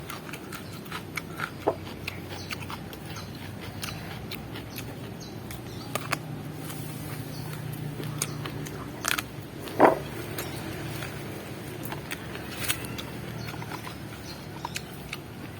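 Close-up chewing and crunching of raw vegetables, many sharp irregular crunchy clicks over a low steady background hum, with one louder sharp sound about two-thirds of the way through.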